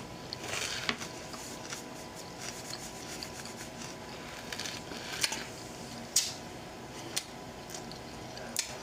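Soft wet chewing and mouth sounds of someone eating watermelon and grapes close to the microphone, with a few sharp clicks scattered through, over a faint steady hum.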